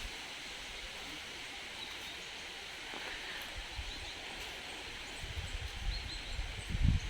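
Outdoor woodland ambience: a steady hiss, with low thumps and rumbles from about halfway on, the heaviest just before the end.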